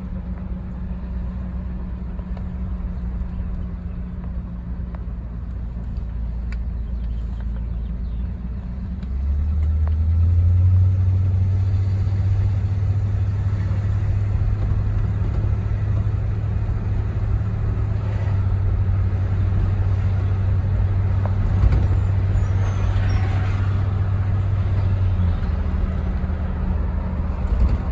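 Car engine and road noise while driving, a steady low drone. It grows louder about a third of the way in and eases off again near the end.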